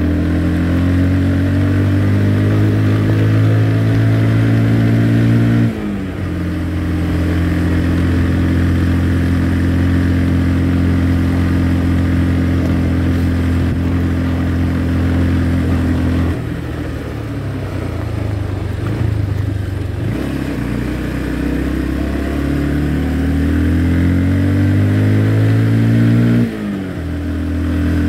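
Motorcycle engine under way, climbing in pitch as it accelerates, dropping sharply at a gear change about six seconds in, then holding steady. It falls away after about sixteen seconds, climbs again, and drops at another gear change near the end.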